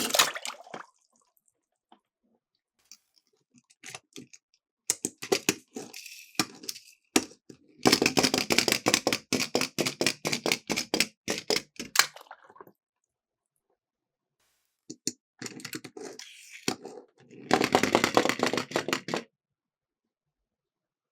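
Miniature toy cars rolling down a plastic slope, clattering in several bursts of rapid clicking and rattling, the longest about four seconds, with silent gaps between runs.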